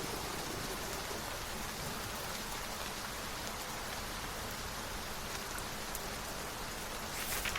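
Steady rain falling on a surface, an even hiss with scattered drops ticking, and a brief louder rustle near the end.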